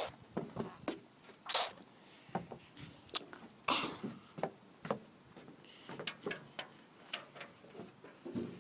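Irregular light clicks and knocks with a couple of brief rustles, the sound of small objects being handled close to the microphone.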